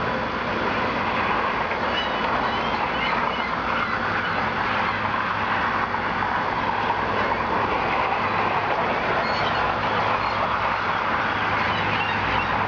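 Steady rushing background noise, with a few faint, short chirps from small birds scattered through it.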